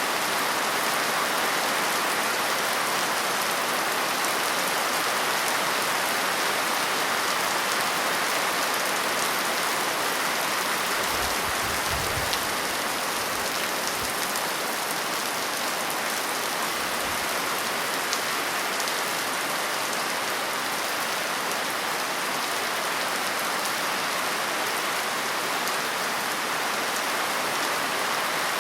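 Steady rain falling, an even hiss of many drops on a surface with no letup.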